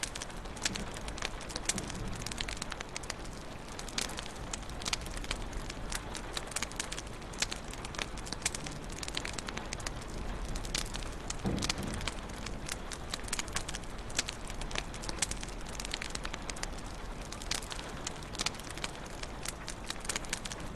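Wood fire crackling in a fireplace: frequent sharp pops and snaps over a steady hiss of burning, with a softer low rumble of the flames about halfway through.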